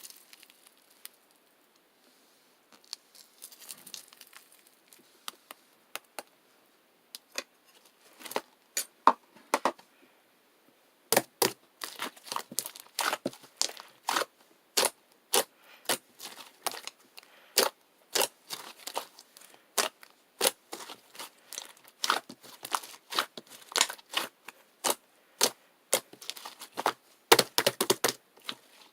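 Slime being squished and stretched by hand, giving sharp irregular popping clicks from air pockets. The clicks are sparse and faint at first, then come several a second from about a third of the way in.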